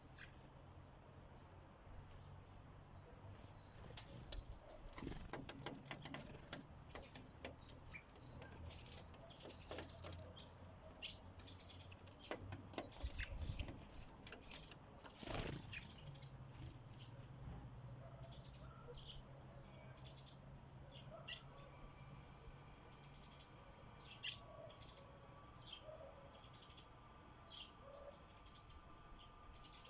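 Sparrows at a feeder: short high chirps, more frequent in the second half, over scattered clicks and wing flutters.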